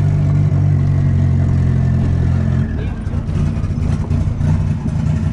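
Turbocharged VW Gol's engine heard from inside the cabin, running steadily at an even pitch, then turning choppy and uneven a little past halfway.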